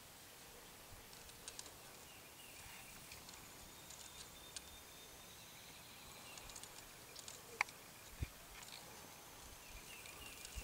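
Quiet background with scattered faint, high bird chirps. A sharp click comes a little past seven seconds, and a soft low thump follows about half a second later.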